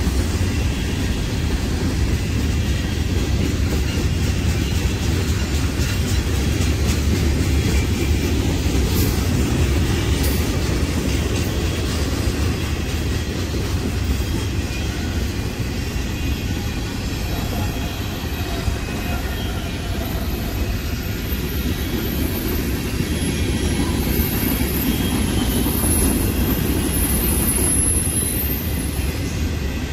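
Freight cars of a long train rolling past: a steady rumble of steel wheels on rail, with a faint high-pitched whine near the end.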